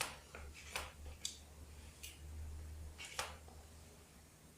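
FOX Boostvalve air shock on a mountain bike knocking as the suspension is pushed down and let back up, giving about five sharp, irregular knocks. This is the knock the shock makes at the end of its rebound stroke and when it bottoms out.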